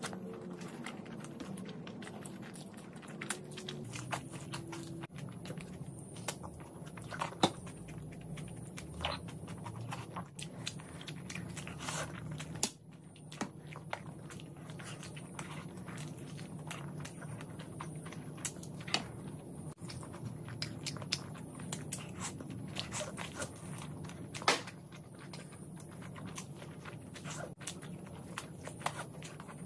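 Close-miked eating: wet chewing and lip-smacking while biting meat off a mutton bone, with many short sharp mouth clicks scattered throughout over a steady low hum.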